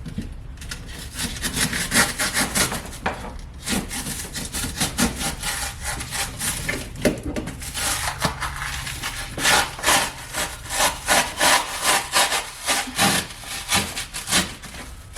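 Small hand saw sawing back and forth through cured expanding foam. The strokes come quicker and louder in the second half, at about two or three a second.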